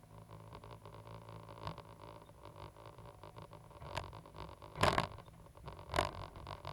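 Caterpillar 320GC excavator working: its diesel engine running steadily under a stream of small clicks and rattles, with three louder knocks about four, five and six seconds in.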